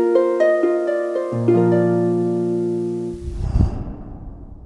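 Intro music of plucked, harp-like notes over held bass notes, which stops about three seconds in and gives way to a low rumbling sound effect that fades out.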